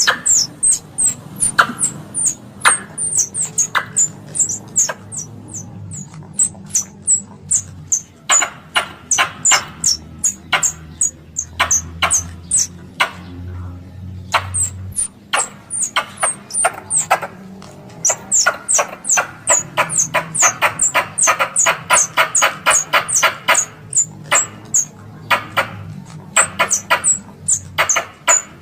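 Tree squirrel lure call: sharp, repeated chattering chirps, each a brief high downward sweep, in uneven runs, with a fast stretch of several calls a second in the second half.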